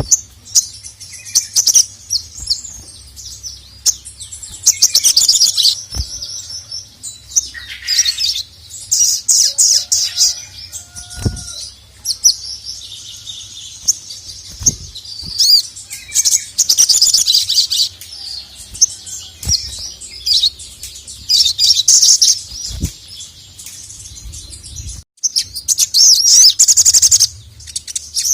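Ruby-cheeked sunbird (sogok ontong) singing: rapid, high-pitched chirps and trills in bursts of a second or two, with short pauses between, and a few faint knocks.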